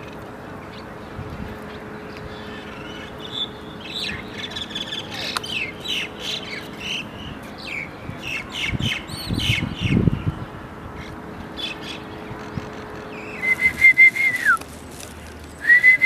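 Birds chirping outdoors, many short rapid calls, over a steady background hiss. Near the end come two long, steady whistled notes, the first dropping in pitch as it ends.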